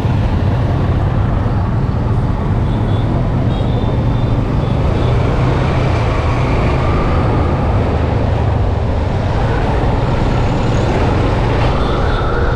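Steady wind rush on the microphone of a moving motorcycle, mixed with the running engine of a Yamaha FZ-S V2 and road traffic noise.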